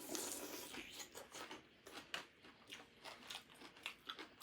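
A person biting and chewing raw cucumber: a quiet, irregular run of short, crisp crunches.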